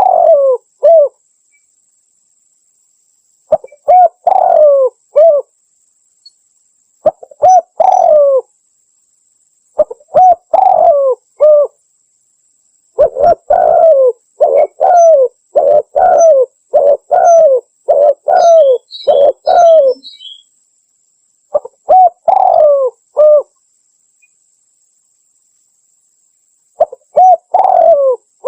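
Spotted dove (tekukur) cooing loud and clear in repeated phrases of several coos each, separated by pauses of two to three seconds, with a longer unbroken run of coos in the middle. A few faint high chirps from another small bird come in just past the middle.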